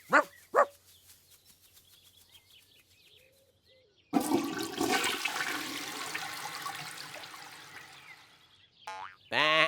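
Two short bleat-like animal calls, then, about four seconds in, a sudden rushing, water-like whoosh that fades away over about four seconds. Another short pitched call comes near the end.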